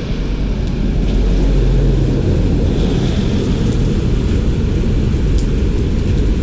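A car engine running close by, low and steady, over an even hiss of rain and wind.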